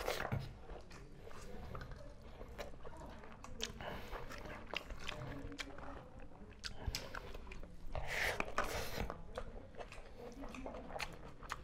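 Two people eating with their hands: soft chewing and mouth noises with many small scattered clicks. A louder, breathy noise comes about eight seconds in.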